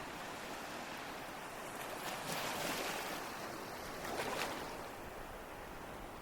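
Ocean waves breaking on a shore: a steady wash of surf with two waves swelling and breaking, about two seconds in and again about four seconds in.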